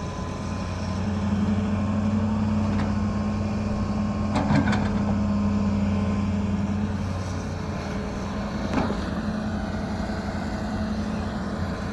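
Excavator engine running steadily, its pitch and level rising for several seconds and then easing back, with a sharp knock about four and a half seconds in and another near nine seconds.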